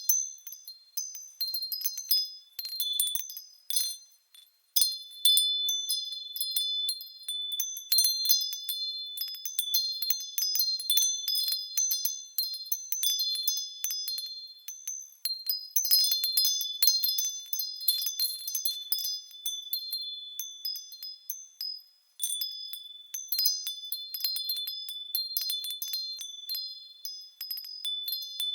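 Japanese furin wind chimes stirred by the breeze, ringing in quick, irregular clusters of high, bright tones that overlap and ring on. They fall briefly quiet twice, about four seconds in and again late in the stretch.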